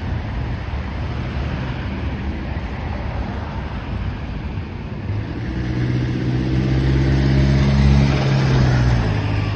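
Diesel engine of a Seagrave fire engine pumper pulling past over street traffic rumble. Its steady engine note comes in about halfway through, rises slightly in pitch and gets louder, peaking near the end.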